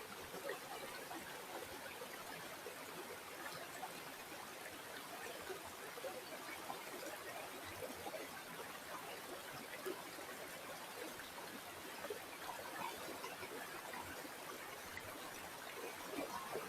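Small stream or river flowing and trickling steadily over stones, a continuous babble of water with many small splashes.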